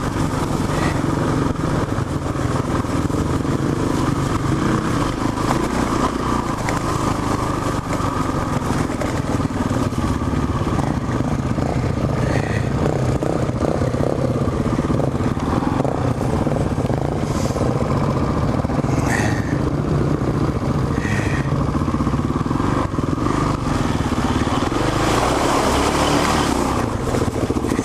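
Dual-sport motorcycle engine running steadily, its pitch shifting a little as the throttle changes.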